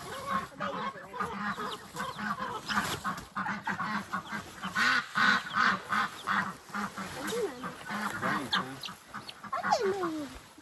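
Flock of domestic ducks quacking, with many short overlapping calls. A few falling calls come near the end.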